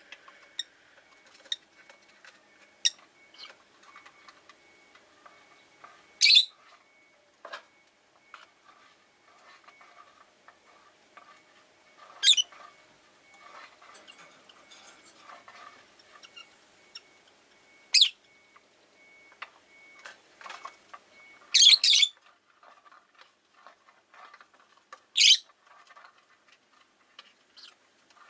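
Rosy-faced lovebirds (Agapornis roseicollis) calling: a loud, shrill single call every few seconds, two in quick succession a little past the middle, over steady soft chattering.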